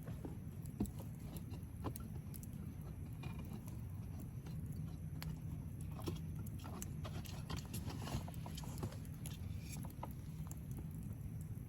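Wood fire crackling, with scattered sharp pops and snaps over a low, steady rumble; the crackles come a little thicker about two-thirds of the way through.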